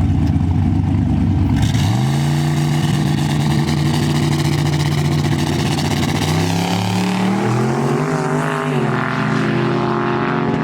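Drag racing car engine: a low rumble, then about two seconds in the revs climb quickly and hold steady at high pitch, with several jumps and shifts in pitch from about six seconds on.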